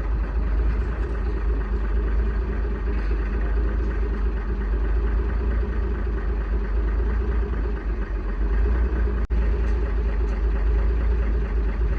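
Truck engine running steadily at idle, with a momentary drop-out a little past nine seconds in.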